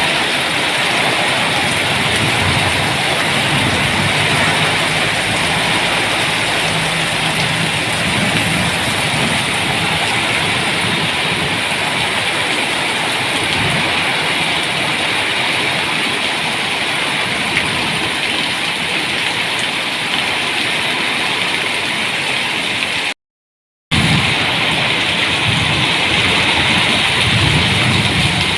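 Heavy rain from an evening rainstorm falling steadily as an even hiss, with a low rumble underneath at times. The sound cuts out completely for under a second about 23 seconds in.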